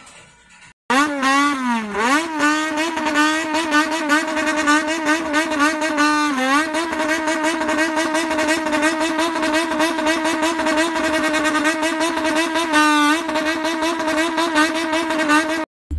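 Car engine revving hard and held at high revs. The pitch climbs and wavers about a second in, then holds steady with two brief dips, and it cuts off abruptly just before the end.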